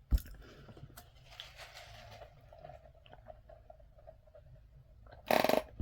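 A person chewing food close to the microphone, with soft wet mouth sounds, a sharp click just after the start and a short loud rush of noise near the end.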